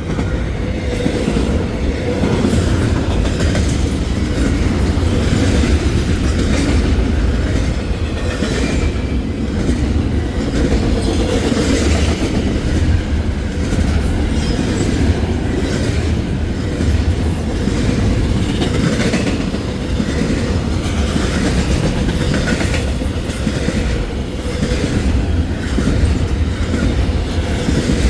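Long intermodal freight train passing close by at speed: a steady rumble of steel wheels on the rails with quick, repeated clicks as the wheels cross the rail joints, and a faint steady wheel squeal.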